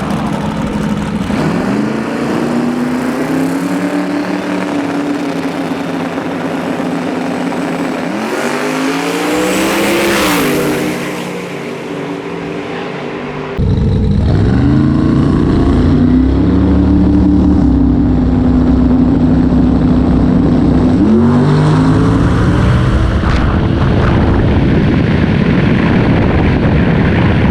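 Drag race car engine running hard at high revs, its pitch climbing, holding and sweeping up again, with a high whine about ten seconds in. About halfway through the sound changes abruptly, and the engine climbs and holds again.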